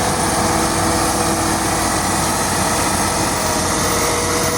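Heavy diesel truck engines running steadily under load, crawling up a steep hill.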